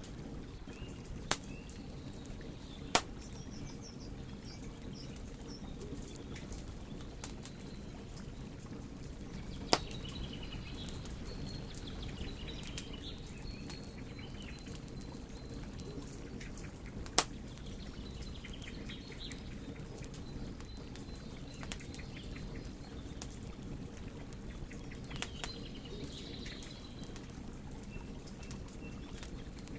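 Wood fire burning with a steady low rush of flames and occasional sharp crackles and pops, a handful of them standing out loudly. Faint high chirping comes and goes behind it.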